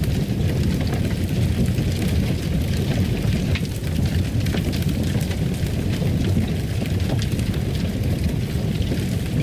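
Fireplace fire burning: a steady low rumble with scattered faint crackles and pops.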